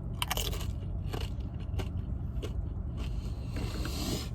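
Close-up eating sounds: chewing and crunching, with a few short sharp clicks in the first half and a scraping rustle near the end. A steady low hum from the car's air conditioning runs underneath.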